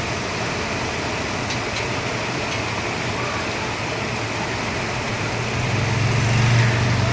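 A vehicle engine running with a steady rushing noise; its low hum swells louder about six seconds in.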